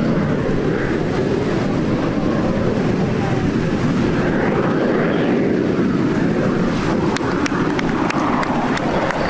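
Steady, loud roar of distant jet aircraft, the Frecce Tricolori's Aermacchi MB-339s, with a few faint ticks near the end.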